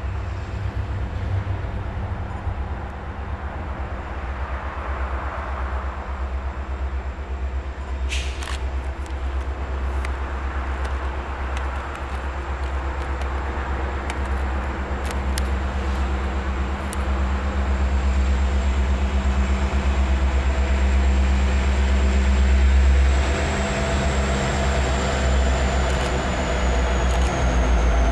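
Freight train led by two EMD diesel-electric locomotives, an SD70M-2 and an SD70M, approaching. The low diesel rumble grows steadily louder as the train draws near and arrives close by near the end.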